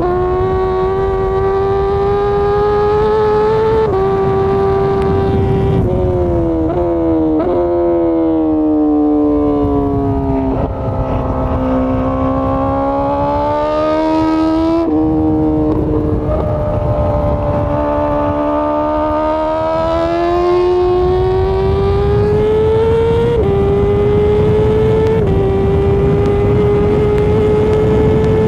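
Honda CBR1000RR-R Fireblade's inline-four engine pulling steadily under way, its pitch sagging slowly, then climbing back. A few small sudden pitch steps come from gear changes, over a steady low rush of road and wind noise.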